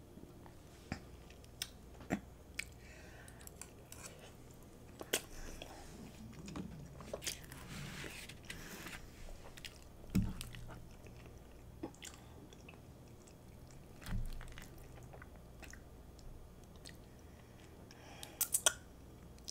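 Close-miked chewing of chili cheese fries: faint, soft, wet mouth sounds with scattered small clicks, a denser stretch of chewing in the middle, and two low thumps.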